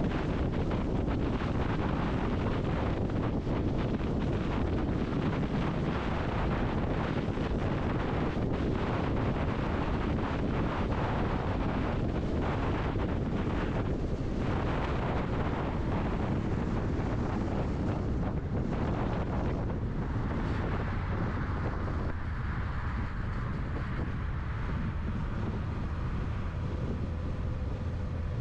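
Road and wind noise of a motorhome driving along a road: a steady rushing over a low rumble. The higher part of the rushing eases somewhat about twenty seconds in.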